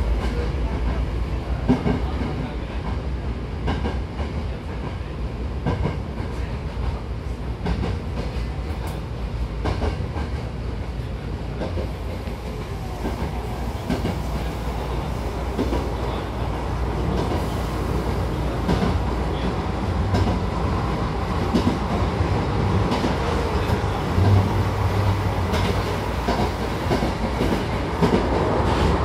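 Hankyu 1000-series electric train running, heard from inside the car: a steady low rumble from the running gear, with the wheels clicking now and then over rail joints.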